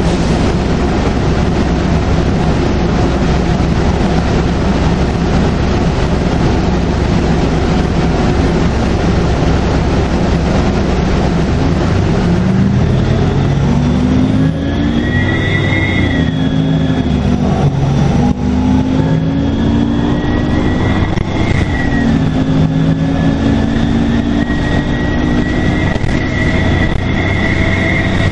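Detroit Diesel Series 50 diesel engine of a 2002 NABI 40LFW transit bus pulling under load with heavy road rumble. About halfway through, its pitch climbs and drops back several times as the Allison B400R automatic shifts up, and a high, steady turbocharger whistle comes in.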